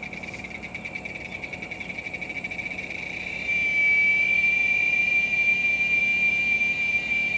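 Giant cicada (Quesada gigas) singing: a high, steady whine that pulses rapidly at first, then grows louder and smooth about three and a half seconds in.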